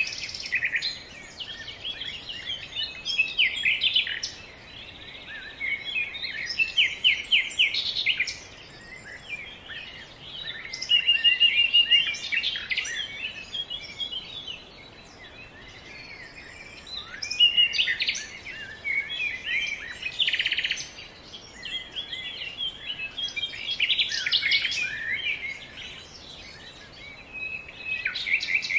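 Songbirds chirping and singing in repeated bursts of quick chirps and trills, a few seconds apart.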